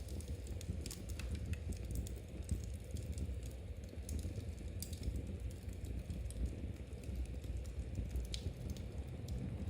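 Knitting needles clicking lightly and irregularly over the steady low rumble of a wood fire, with an occasional crackle.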